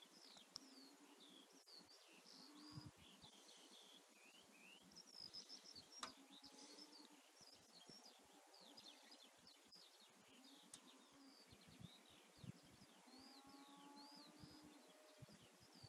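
Near silence with faint bird chirping throughout and a few soft ticks.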